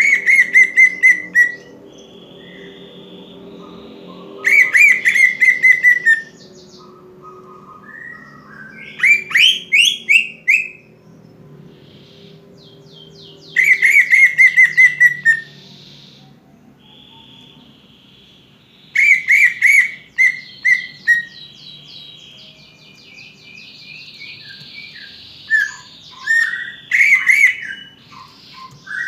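Cucak ijo (green leafbird) song: loud phrases of quick repeated notes, each lasting a second or two and coming about every five seconds, with softer whistles in between.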